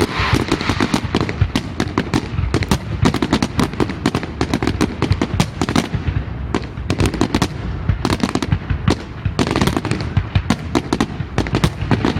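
Fireworks display going off in a rapid, continuous barrage: many sharp bangs several per second, overlapping with crackling bursts, with no break.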